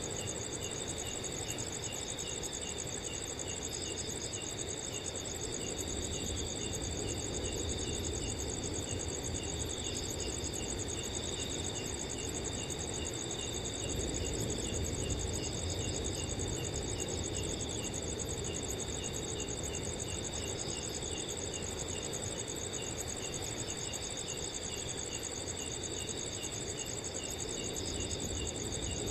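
Several crickets chirping steadily at different pitches: a fast, high trill and a slower, evenly repeated chirp, over a low, even rush of wind.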